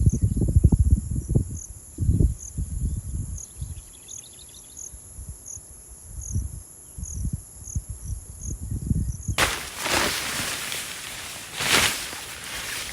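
Outdoor insect chorus: a steady high buzz with a faint chirp repeating about twice a second. Low rumbling wind gusts buffet the microphone, loudest near the start. From about three-quarters of the way in, a loud rustling hiss swells twice.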